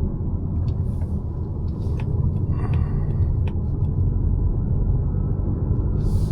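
A 2025 Mazda CX-5's naturally aspirated 2.5-litre e-SKYACTIV G petrol engine and tyres giving a steady low rumble while driving, with a few light clicks and a brief tone about three seconds in.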